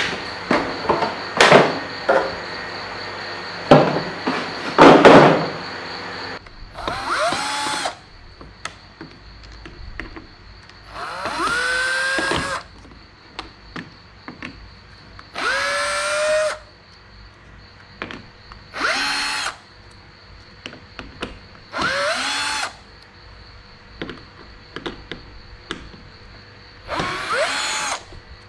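Power drill-driver running in about six short bursts, each spinning up with a rising whine, as screws are taken out of a car's dashboard. A clatter of sharp knocks and clicks fills the first few seconds.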